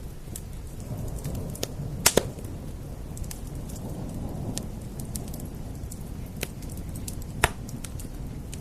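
Wood fire crackling with scattered sharp pops, two close together about two seconds in and a loud one near the end, over a steady hiss of rain on glass and a low rumble.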